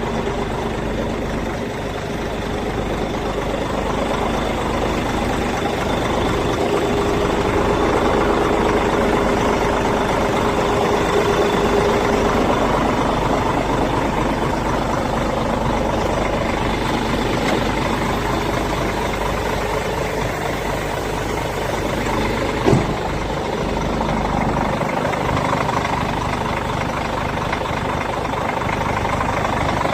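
Engine of a 2001 Hyundai tractor-unit truck idling steadily, with a single sharp click about two-thirds of the way through.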